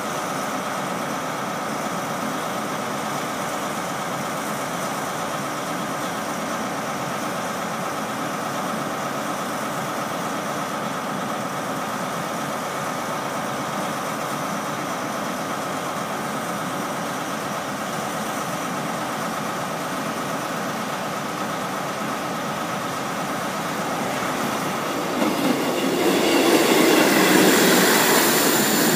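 An HST diesel power car idling steadily while the train stands at the platform. About 25 seconds in, a diesel multiple unit runs in alongside, much louder, with engine and wheel-on-rail noise, and this is the loudest part.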